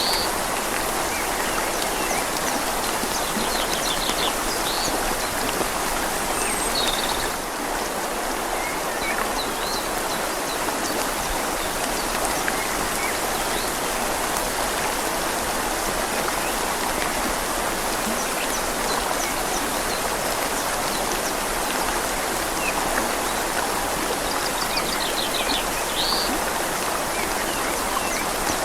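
Steady rain falling on leaves over a gently flowing river, a dense, even hiss of water. A few brief high bird chirps come through it, near the start and again near the end.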